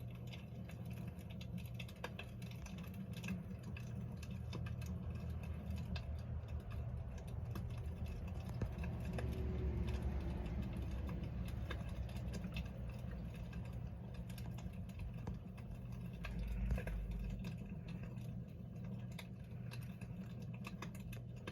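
Wood fire in a fireplace crackling, with many small irregular pops over a steady low hum, and one louder pop with a thump about three-quarters of the way through.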